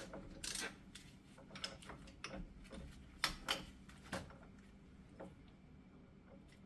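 Scattered light metallic clicks and knocks, about a dozen over the first four seconds, of hand tools and a bearing puller being handled and set back into place on the hub.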